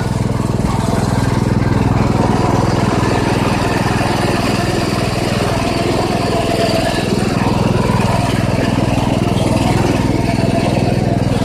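Riding lawn mower engine running steadily through its stock muffler as the mower is driven.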